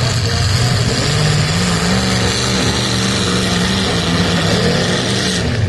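Engines of full-size demolition derby cars running and revving, with the engine pitch rising a little about two seconds in.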